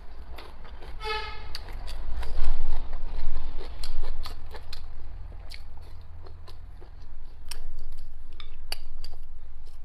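Close-miked chewing of braised chicken offal: wet mouth clicks and smacks at an uneven pace over a low, thudding rumble that is loudest a few seconds in. A short hummed "mm" about a second in.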